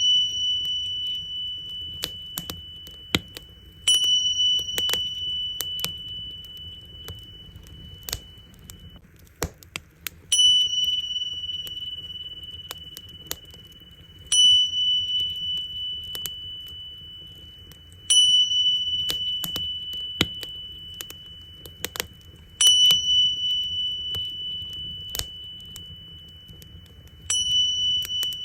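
Tingsha cymbals struck six times, each clash ringing on as a high, steady tone that slowly fades. Under them are the crackles and pops of a wood fire.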